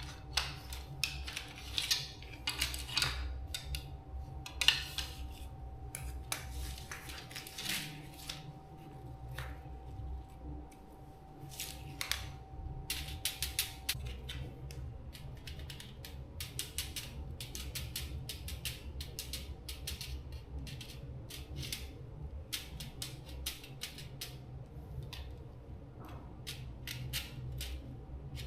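Irregular sharp clicks and snips of small hand tools working on a small appliance, over a steady low hum. A faint steady tone stops about halfway through.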